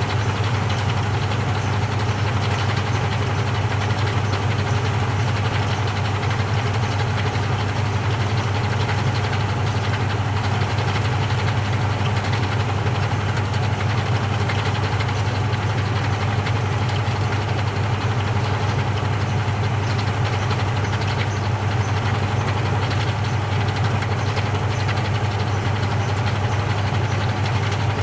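Samsung 6.5 kg top-loading washing machine running steadily through its quick wash cycle, with an even low hum.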